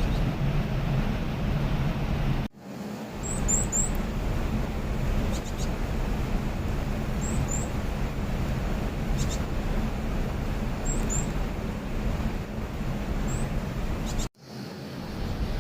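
Varied tit giving short, thin, high chirps in clusters of two or three, several times over, against a steady low rumble of background noise. The sound drops out briefly twice.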